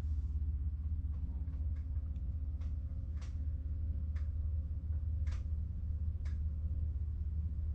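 Harbor Breeze Classic Style 52-inch ceiling fan running, with a steady low motor hum and light ticks about once a second.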